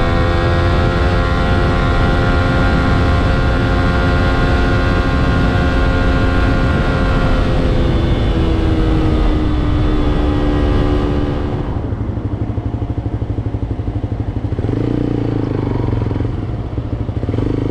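Suzuki GSX-S125's single-cylinder four-stroke engine running at steady revs under way with wind noise. Its pitch drops about eight seconds in, and about four seconds later the bike slows and settles to a low, even idle.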